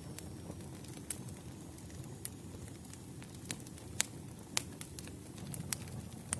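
Wood campfire crackling: a steady low rush of burning logs with sharp, irregular pops, the loudest two about four and four and a half seconds in.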